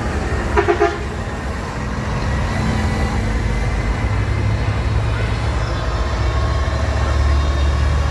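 Tractor engines running with a steady low rumble, and a vehicle horn giving three quick toots about half a second in.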